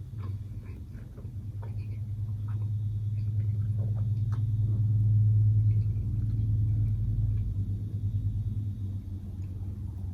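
A low rumble that builds to its loudest about halfway through and then fades, under faint, scattered mouth clicks of chewing.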